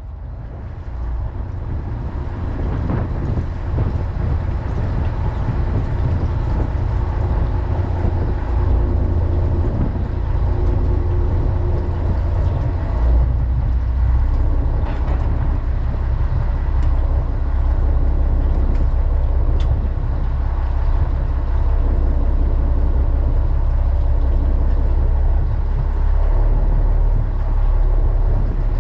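A fishing boat's engine running underway: a deep, steady drone with a haze of wind and water noise over it, fading up over the first few seconds.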